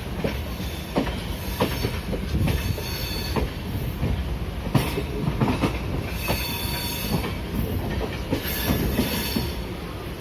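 Passenger train running, heard from inside a coach: a steady rumble of wheels on the rails, with irregular clanks from track joints and two stretches of high wheel screech.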